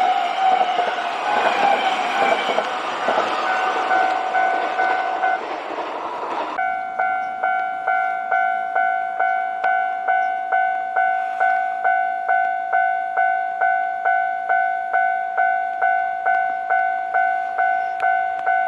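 A Kintetsu train passes over a Japanese level crossing: a loud rush of wheels on the rails with a falling tone, while the crossing's warning bell rings. About six seconds in the train noise cuts off abruptly, leaving only the level-crossing alarm bell ringing steadily at a little over two strikes a second.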